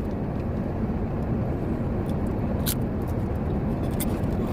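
Steady low rumble of a truck idling, heard from inside the cab, with two short sharp clicks, one a little past halfway and one near the end.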